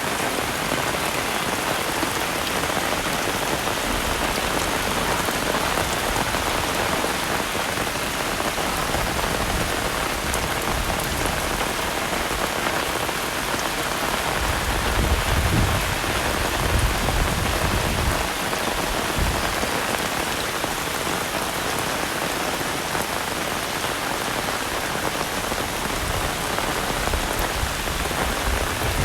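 Heavy rain pouring down steadily, a dense, even hiss of drops hitting surfaces. A low rumble swells for a few seconds around the middle.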